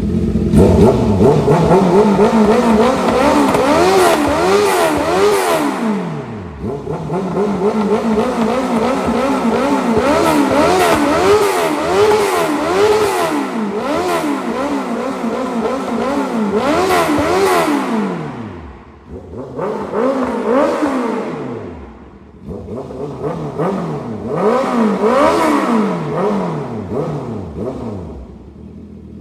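2021 Honda CB650R's inline-four engine, breathing through a full aftermarket exhaust with a bomb-style muffler, revved hard in long runs of quick throttle blips, about one a second. The revs fall back briefly about six seconds in, again around eighteen and twenty-two seconds, and settle low near the end.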